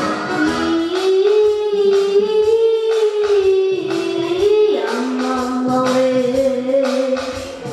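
A female voice singing long held notes over a musical accompaniment. A second, lower held note joins about five seconds in.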